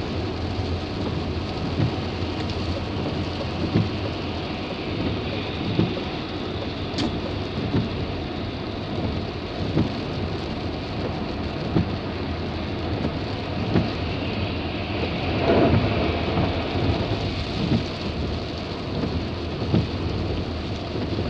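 Heavy rain on a moving car with tyres hissing on a wet road, and a short thump about every two seconds. About fifteen seconds in, a louder rush of spray swells and fades.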